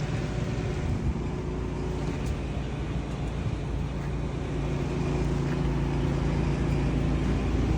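A steady engine drone with a low rumble and a constant hum of several pitches.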